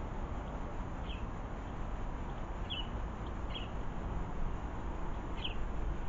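Wild garden bird giving short high chirps, about four, spaced a second or more apart, over a steady background hiss.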